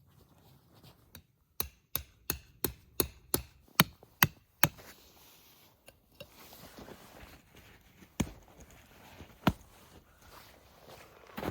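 Tent peg being hammered into the ground: a quick run of about eight sharp strikes, then two more spaced-out blows.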